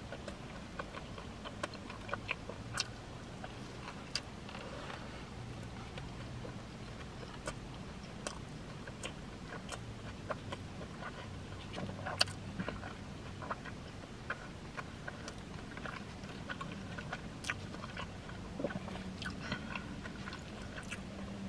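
Close-miked mouth sounds of a person biting into and chewing a bacon cheeseburger, with soft clicks and smacks scattered irregularly throughout.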